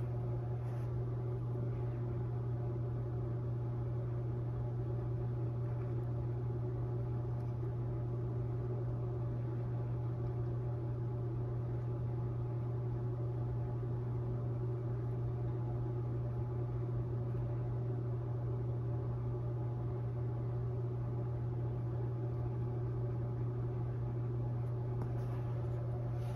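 Steady low machine hum, with fainter even tones above it and no change in level.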